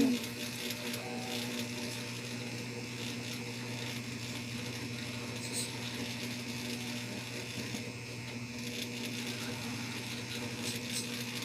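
Steady low electrical hum with faint hiss from a guitar amplifier and effects pedal chain left idle, after a guitar chord is damped right at the start; a few faint clicks.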